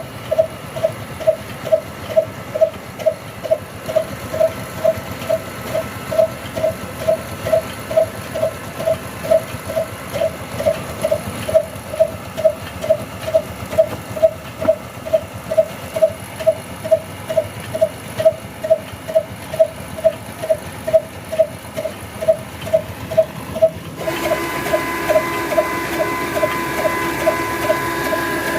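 Old desi diesel engine driving a flour mill, running at a slow even beat of about three thumps a second. Near the end a steady whine joins the beat.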